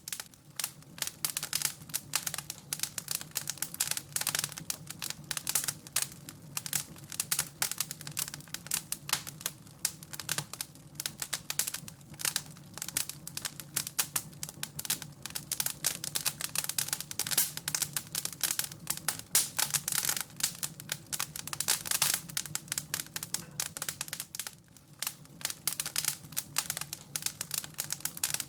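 Wood fire in a fireplace crackling and popping continuously, with dense irregular snaps over a low steady hum.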